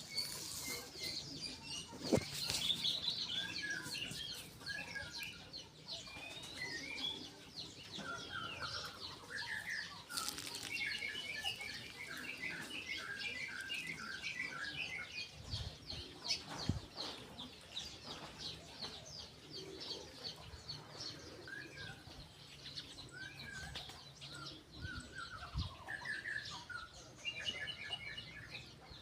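A chorus of several wild birds singing and calling over one another: quick chirps, short repeated notes and trilled phrases, with a few sharp knocks, the loudest about two seconds in.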